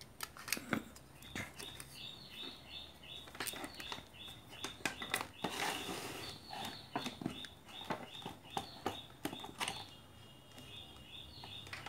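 A bird chirping over and over, about three short high chirps a second, breaking into a quick trill near the end, with scattered light clicks and taps.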